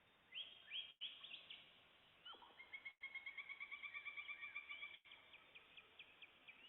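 Songbirds singing in woodland. There are a few quick upward chirps, then a rapid, even trill of repeated notes that lasts a couple of seconds, followed by a slower series of sharp notes.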